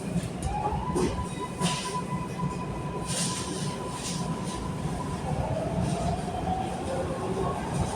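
Steady rumble of a MARTA Breda subway car running on the rails, heard from inside the car. A high whine holds steady for about four and a half seconds, then gives way to a lower, wavering whine, with a few short knocks over the rumble.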